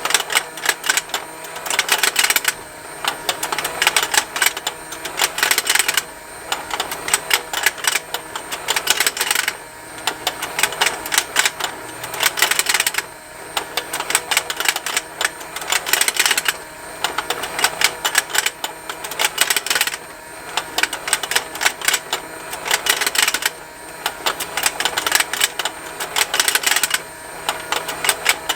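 Plastic rotating fishing-game toy running on its motor: rapid, continuous plastic ticking from its mechanism, thinning into a brief quieter dip about every three and a half seconds as it turns.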